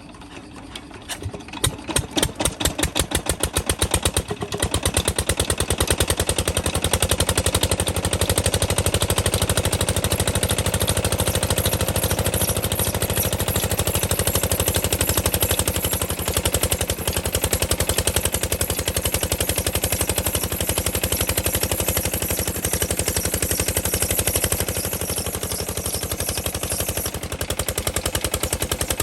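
A Petter engine driving a small tubewell pump starts up: separate firing beats come about a second in and quicken over the next few seconds. It then settles into a steady, fast running beat.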